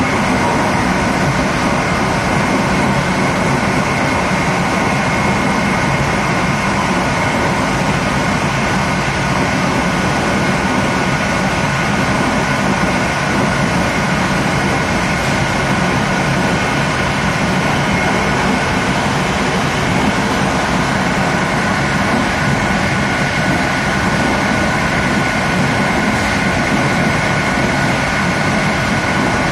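The last carriage of a TLK passenger train running at speed: a steady rolling noise of wheels on rails and rushing air, with two faint steady high whines, heard from the rear of the carriage.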